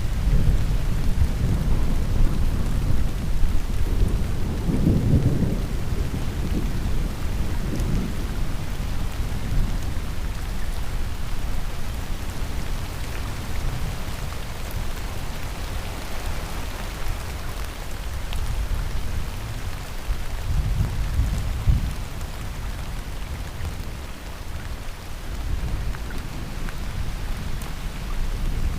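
Heavy rain falling steadily in a thunderstorm, with deep rolls of thunder rumbling in and out, strongest a few seconds in and again about three quarters of the way through.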